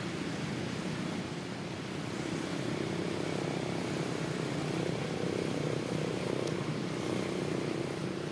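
Steady low rumble of a distant engine, swelling a little in the middle and easing near the end.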